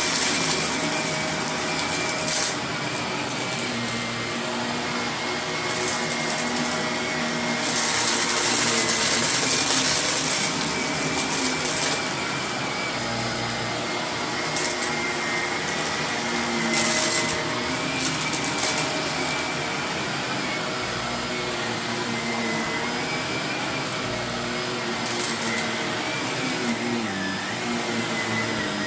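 Vacuum cleaner running steadily over carpet with a constant motor whine, broken by several stretches of louder rushing and crunching as hidden debris is sucked up, the longest about a third of the way in.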